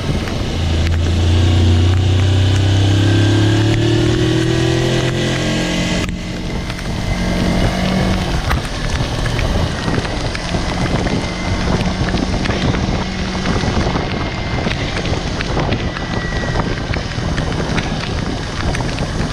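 Kawasaki Versys-X parallel-twin motorcycle engine pulling under acceleration, its pitch slowly rising for about six seconds, then changing abruptly to steadier running nearly buried in wind noise on the microphone.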